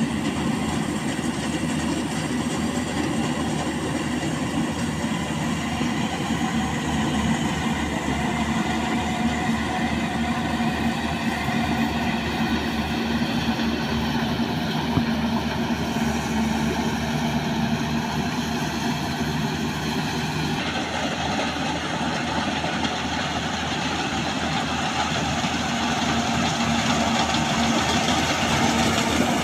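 Yanmar AW70V rice combine harvester running steadily, its diesel engine and machinery making a continuous mechanical drone with a fast, rattling pulse. The tone shifts abruptly about two-thirds of the way through.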